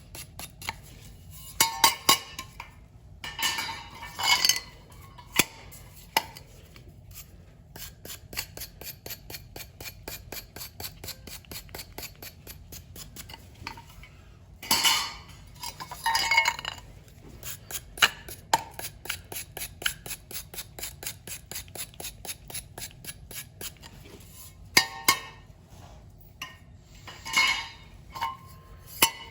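Metal clinking and scraping as boiler parts and tools are handled and cleaned, with a fast patter of light ticks and several louder scraping or clattering strokes.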